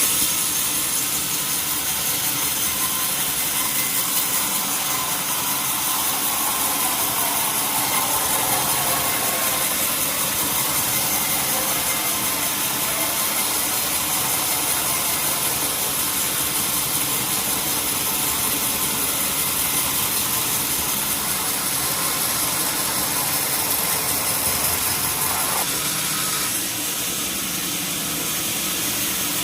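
Engine-driven sawmill saw running steadily while cutting a log, with a whine that drops in pitch for a few seconds about a quarter of the way in.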